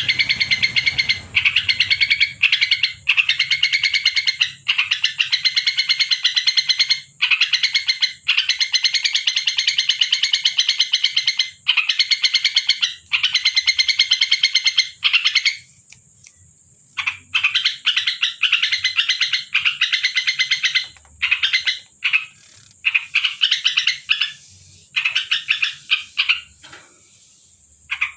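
Yellow-vented bulbul (trucuk) calling in repeated bursts of rapid chattering notes, each burst lasting one to three seconds with short pauses between, and a longer pause about halfway through.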